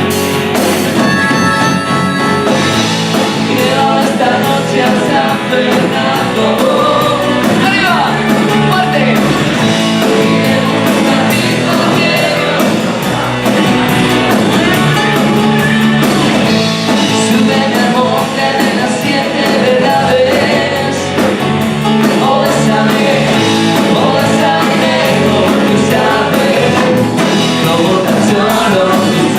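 Pop-rock band playing a song with a sung lead vocal over guitars, bass and a steady drum beat.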